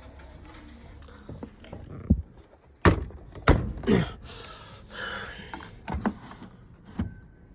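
A few sharp knocks and thuds from a front-loading washing machine being handled, with the loudest three coming about two to three and a half seconds in.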